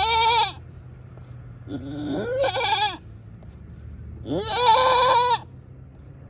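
Goat bleating: the end of one call, then two more calls about a second long, each rising in pitch as it begins.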